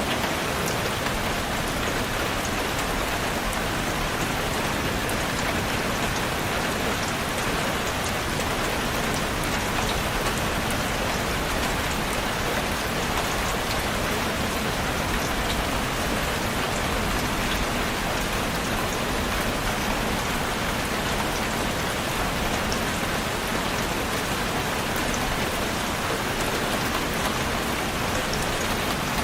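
Steady rain falling, an even hiss with the patter of drops hitting a surface.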